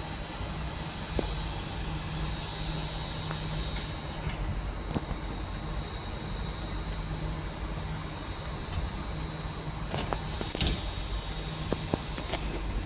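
Regional passenger train running, a steady low rumble under a constant high-pitched whine, with a few short clicks and knocks near the end.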